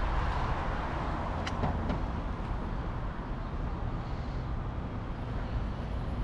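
Steady city traffic and road noise heard from a moving bicycle, a low rumble with a few faint clicks about a second and a half in.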